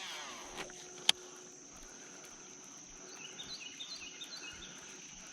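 Steady high-pitched insect drone outdoors, with a bird chirping a quick run of notes about three seconds in. A single sharp click, the loudest sound, about a second in.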